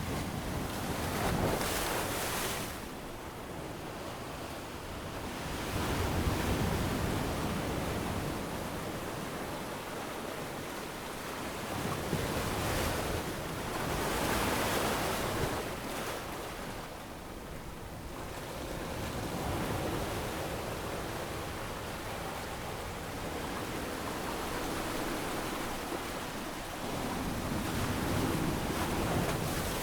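Ocean waves breaking on a beach, the surf swelling and fading every few seconds.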